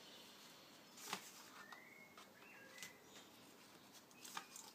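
Quiet handling of printed card kit sheets: a few faint rustles and soft taps as the sheets are lifted and shifted, with a faint high squeak or two about two seconds in.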